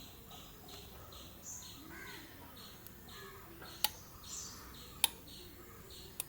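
Faint bird chirps repeating evenly, about three a second, with a higher call now and then. Three sharp clicks come in the second half.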